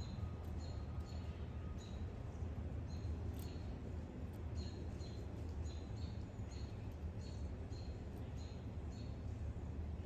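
A small songbird giving short, high chip notes over and over, roughly two a second and unevenly spaced, over a low steady rumble.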